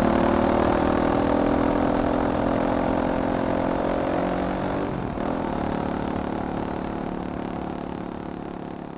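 Caballero 500 motorcycle's single-cylinder four-stroke engine running steadily at low revs, its note sinking slightly and fading gradually.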